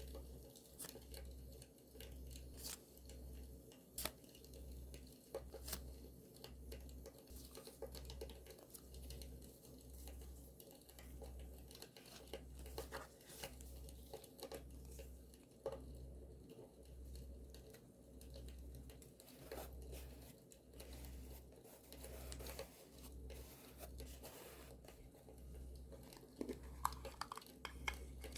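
Paper being torn and handled in quiet crinkles, with scattered small crackles of a campfire beneath.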